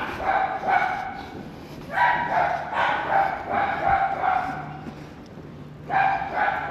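A dog barking repeatedly, in bouts with short pauses between: a run of barks near the start, another about two seconds in, and another about six seconds in.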